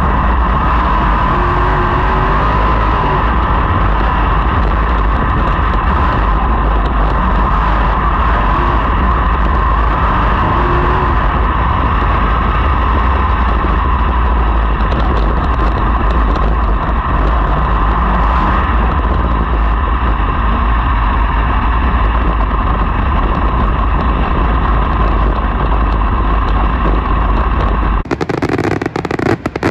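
Sprint car engines running flat out in a pack on a dirt oval, a continuous loud din. About two seconds before the end it cuts abruptly to fireworks popping and crackling.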